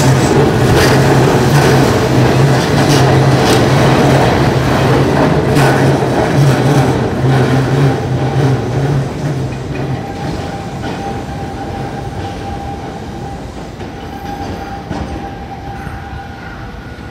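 Keihan 800 series electric train running past on street track with a low hum, its wheels clacking a few times over rail joints. The sound fades steadily as it pulls away, leaving a thin high tone from about ten seconds in.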